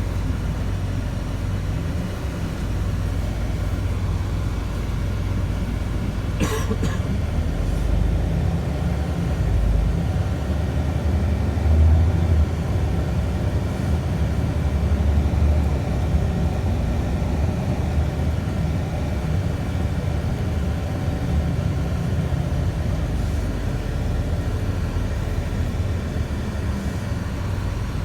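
Scania bus running on the road, heard from inside the cabin: a steady low engine and road rumble that swells a little around the middle, with one short sharp click or rattle about six seconds in.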